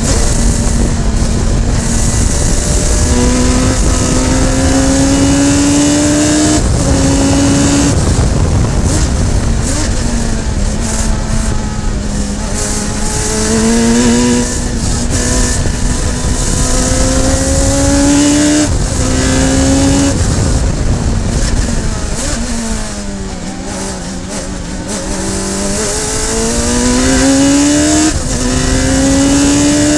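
Radical SR3 race car's four-cylinder motorcycle-derived engine at racing speed, pitch climbing under acceleration and dropping back at each quick upshift, with a stretch about two-thirds through where it falls away and comes down through the gears for a corner before pulling up again. Steady wind and road rush underneath.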